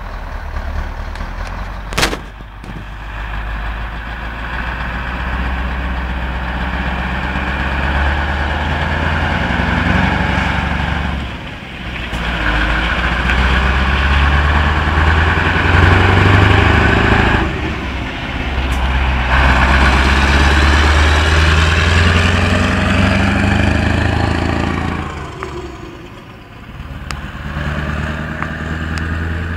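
Scania 144-530's 14-litre V8 diesel engine running, its sound swelling louder and easing off several times, with a few brief drops in between. A single sharp click about two seconds in.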